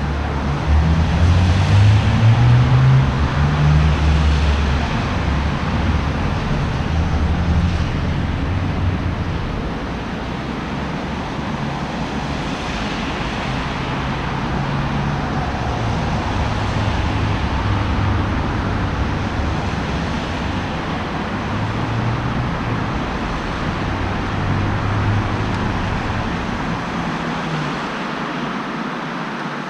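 Road traffic: cars passing one after another, a steady tyre hiss over a low engine rumble that swells as each vehicle goes by, loudest in the first few seconds.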